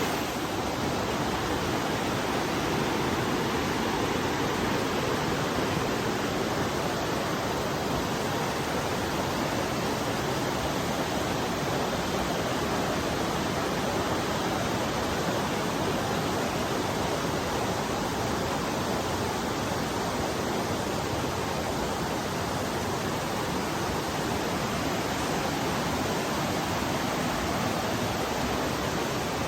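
Rushing water of the Dan River, a steady, unbroken noise.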